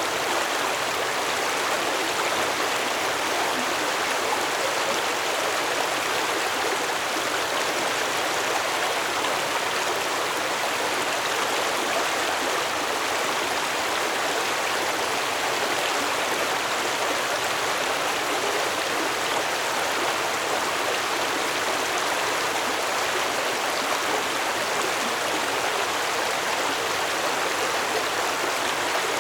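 Stream water flowing steadily over rocks: a constant, even rush of babbling water with no changes.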